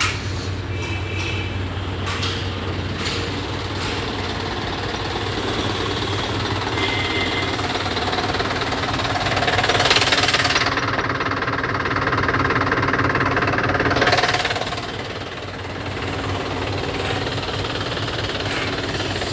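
Truck diesel engine idling steadily. A louder, hissing noise swells for about five seconds in the middle, then falls back.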